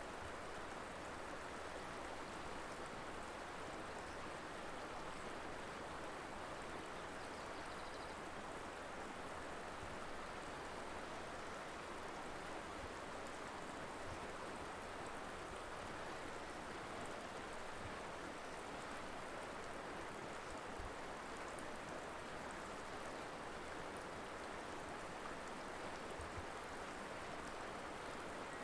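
The Colorado River flowing steadily, a constant rushing of water.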